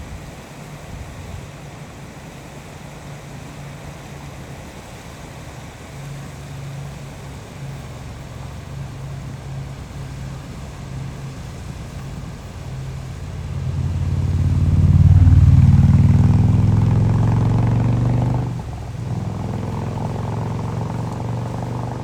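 An engine hum that grows slowly louder, is loudest about two-thirds of the way through, then drops suddenly and carries on more quietly near the end.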